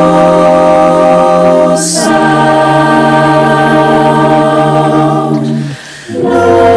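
Choir singing a cappella in long held chords, moving to a new chord about two seconds in with a brief hissing consonant, then a short break near the end before the next chord.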